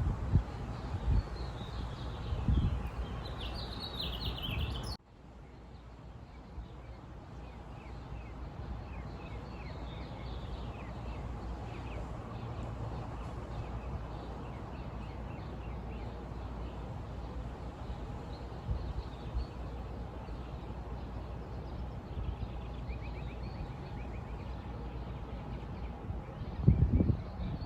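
Outdoor ambience of birds chirping over a low rumble. About five seconds in it cuts abruptly to a quieter, steady outdoor background with faint chirps, and a few low thumps come near the end.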